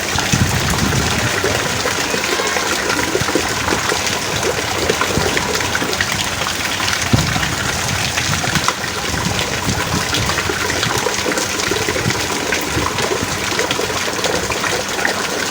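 Heavy rain pouring steadily, a dense, even rush of water with scattered louder drops.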